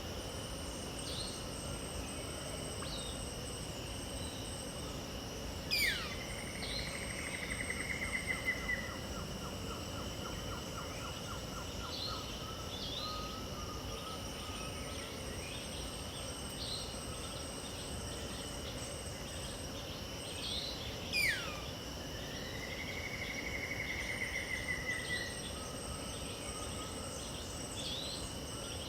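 Dawn wetland chorus: a steady high insect drone with scattered short bird chirps. Twice, about fifteen seconds apart, a bird gives a loud, sharply falling whistle followed by a dry rattling trill.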